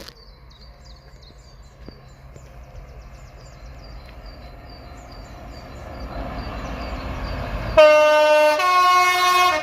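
Train approaching with a steadily rising rumble, then the driver sounds a two-tone horn near the end: a lower note followed by a higher note, both loud and held.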